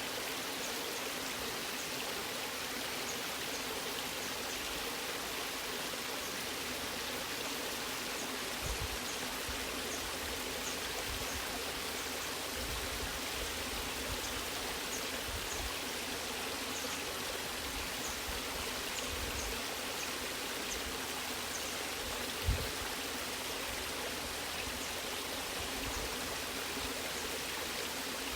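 Waterfall water rushing steadily, an even hiss of falling and splashing water. Two brief low thumps break through, the louder one late on.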